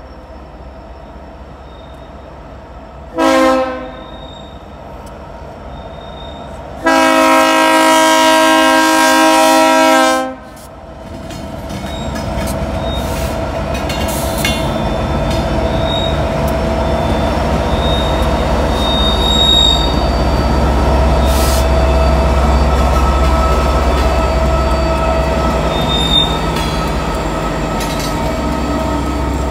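Norfolk Southern coal train's multi-note locomotive horn finishing a grade-crossing signal: a short blast a few seconds in, then a long blast of about three seconds. After it the diesel-electric locomotives and the loaded cars come up with a low rumble that builds to a loud steady roar, with a steady hum and brief wheel squeals.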